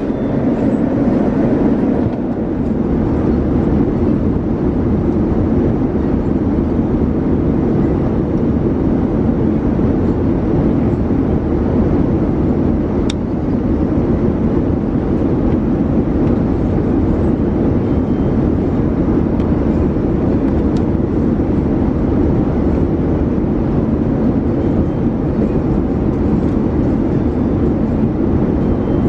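Steady rushing cabin noise of a Boeing 787-9 airliner in flight, heard from inside the cabin. There is a single faint click about halfway through.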